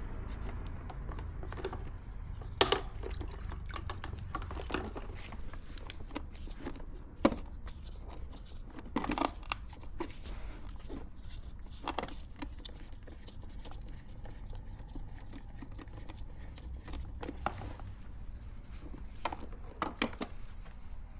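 Handling noises: irregular sharp clicks and crinkling rustles over a steady low rumble.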